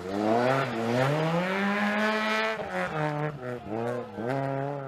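Rally car's engine revving hard as the car passes close by. The pitch climbs steadily for about two seconds, then the revs dip and rise again several times in quick succession.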